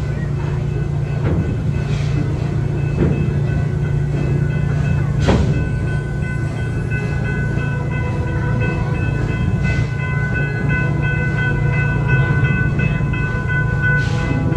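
Theme-park passenger train rolling along with a steady low rumble, its wheels clicking now and then over rail joints. A steady high ringing tone rides over the rumble from a few seconds in.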